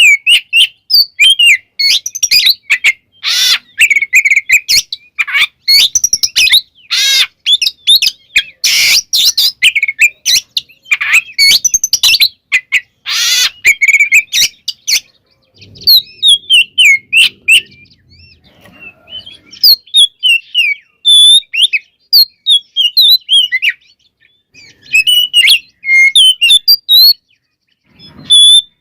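Oriental magpie-robin (kacer) singing loudly: a fast, varied stream of clear whistled phrases broken by harsh rasping notes, with a few short pauses. The song is full of mimicked phrases of other birds.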